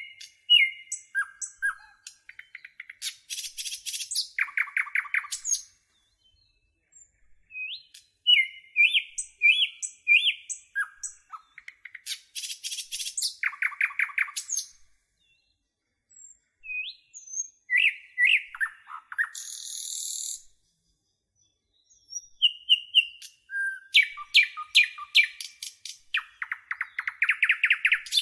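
Birdsong: quick chirps, whistled notes and fast trills in phrases a few seconds long, separated by short pauses.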